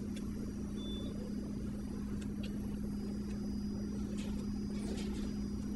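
Steady low hum of hallway room tone, with a few faint soft taps in the second half from footsteps on the floor.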